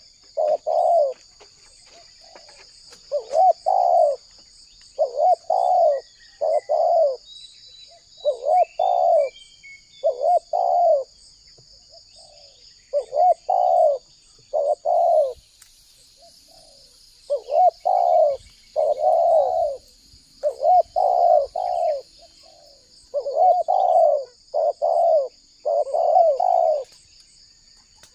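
Spotted dove cooing: phrase after phrase of short low coos in groups of two to four, with brief pauses between phrases. A steady high insect trill runs behind it.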